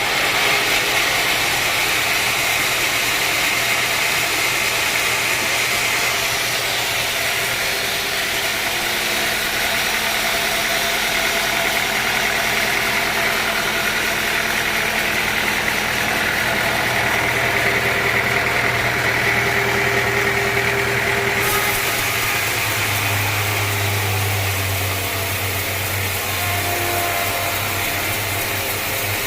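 Sawmill machinery running steadily: a continuous engine-like mechanical noise with a low hum, which grows a little fuller about three-quarters of the way through.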